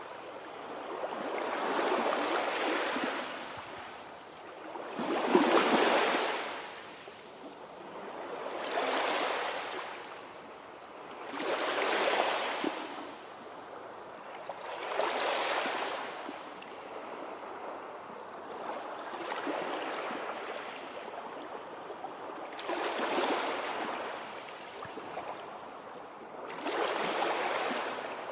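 Sea waves breaking and washing onto the shore, one surge every three to four seconds, each rising and falling away; the strongest comes about five seconds in.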